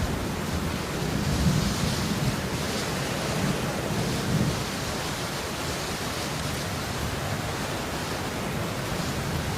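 Steady falling rain, an even hiss, with a low rumble swelling and fading underneath.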